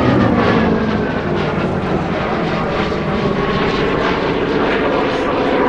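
Hawker Fury's Bristol Centaurus radial piston engine and propeller flying past. The engine note drops in pitch over the first couple of seconds as the aircraft passes, then runs steadily.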